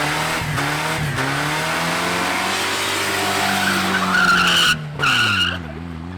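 Ford Mustang's 5.0 V8 held at high revs through a burnout, with the tyres breaking into a high screech about four seconds in, briefly cut off and resumed; the revs drop near the end.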